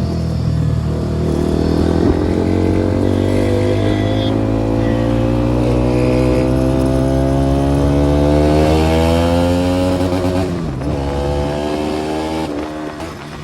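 KTM Duke 390's single-cylinder engine, fitted with a modified exhaust, pulling in gear with its pitch rising slowly for about ten seconds. The pitch then dips sharply as the throttle comes off, and the engine runs on more quietly near the end.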